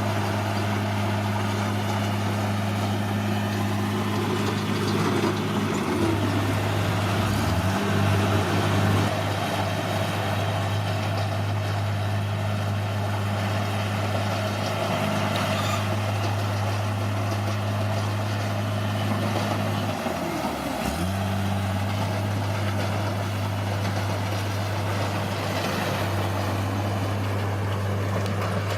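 Bulldozer's diesel engine running steadily, its note dipping and recovering twice, about 7 seconds in and about 20 seconds in.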